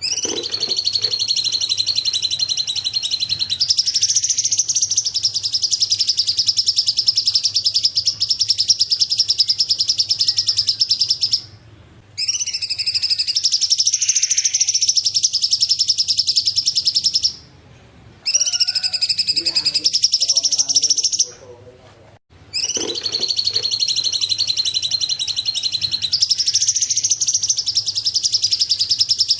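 Masteran mix of small songbirds (cililin, fighting sparrows, ciblek and cucak cungkok) chirping in dense, fast high trills, broken by three short pauses about 11, 17 and 21 seconds in.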